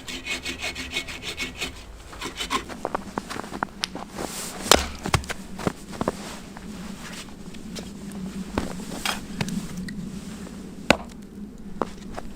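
Hand saw cutting wood in quick, even strokes for about the first two seconds. After that come irregular snaps and knocks of wood being handled.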